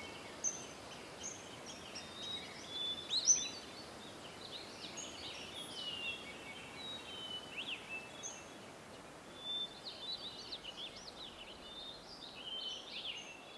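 Birds chirping: many short, high whistled calls and trills, scattered throughout over a faint steady hiss.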